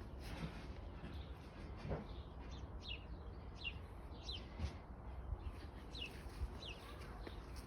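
A small bird calling repeatedly, short high chirps that each fall in pitch, coming about every half second to a second over a steady low rumble.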